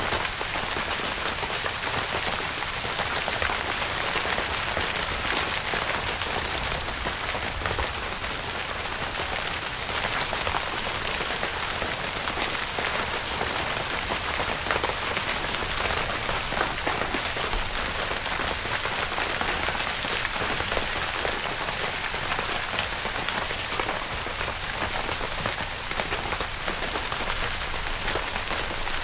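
Steady rain falling on a tent's fabric: a dense, even patter of countless drop hits that holds at the same strength throughout.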